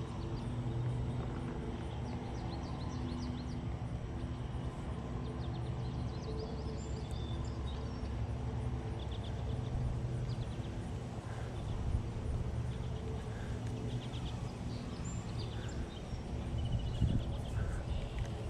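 A steady low hum, with faint high chirping scattered through it.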